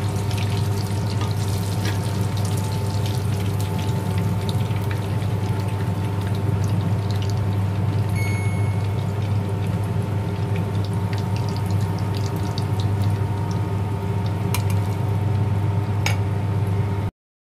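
Battered fish fillet frying in hot oil in a frying pan: steady sizzling with many small crackles, over a steady low hum. A brief high tone sounds about halfway through, and the sound cuts off abruptly just before the end.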